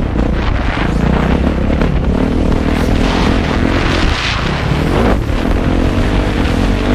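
Motocross motorcycle engine running under its rider, its pitch rising and falling as the throttle is worked, over a heavy low rumble.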